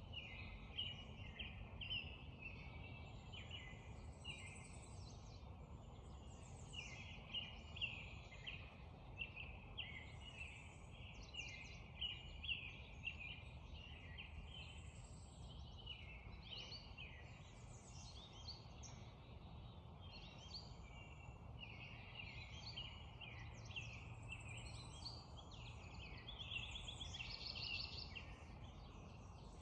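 Spring dawn chorus: many songbirds singing and calling over one another in a continuous overlapping mix of chirps and short phrases, over a steady low rumble.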